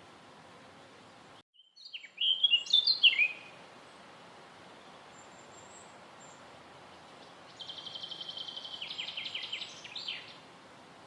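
Small songbird singing over a steady background hiss. About two seconds in comes a loud burst of sharp, varied whistled notes. Later comes a fast trill that steps lower partway through and ends on a falling note.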